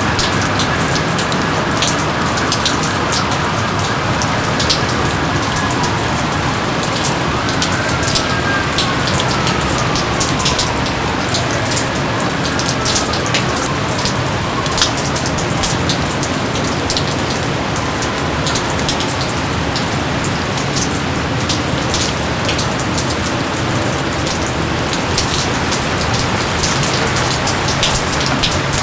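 Steady rain falling, an even wash with many individual drops pattering through it. A few faint falling whistles sound partway through.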